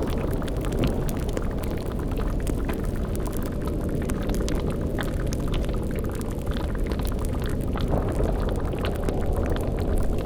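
Layered spooky ambience: a steady deep rumble with a cauldron bubbling at the boil and scattered fire crackles over it.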